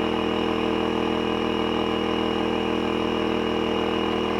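Air compressor motor running steadily with an even, unchanging hum.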